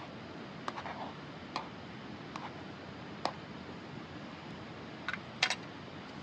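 Scattered light clicks and taps, about seven, with the loudest close pair near the end, over a steady hiss.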